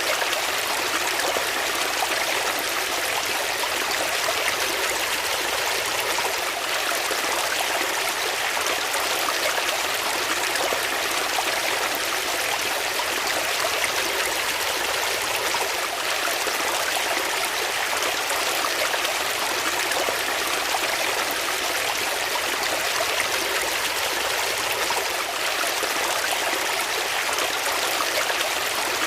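Water flowing steadily, an unbroken rushing and trickling like a stream.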